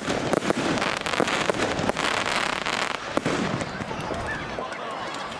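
Display fireworks going off in quick succession: a steady run of sharp bangs over dense crackling from bursting shells, thickest about two seconds in, with a few louder reports about three seconds in.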